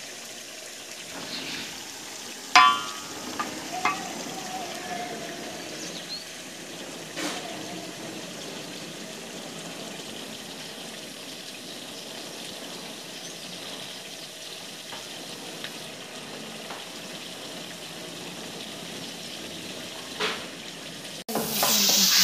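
Goat meat sizzling in a cooking pot: a steady hiss, with a sharp ringing clink about two and a half seconds in. Near the end it turns suddenly louder, with quick clattering from stirring.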